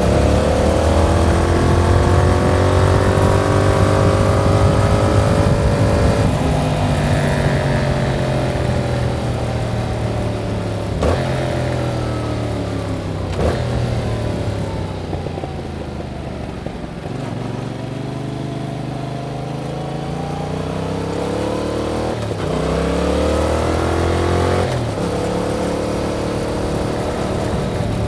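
2021 Yamaha MT-07's 689 cc parallel-twin engine through its stock exhaust, heard while riding: it pulls up through the gears with several shifts, eases off and slows around the middle, then accelerates again with more shifts toward the end.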